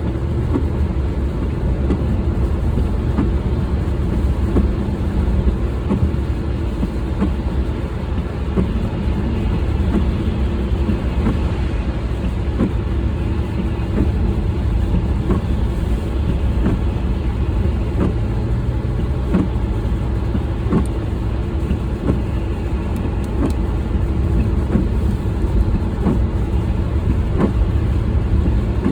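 A car driving, heard from inside the cabin: steady low road and engine rumble, with scattered light ticks.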